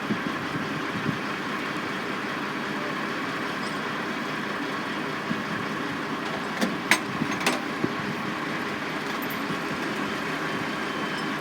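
Steady drone of construction machinery engines running, with a few short sharp knocks about seven seconds in.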